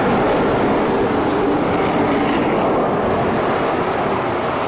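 A strong jet of water spraying onto a muddy toy, a steady rushing hiss that starts suddenly and later cuts off.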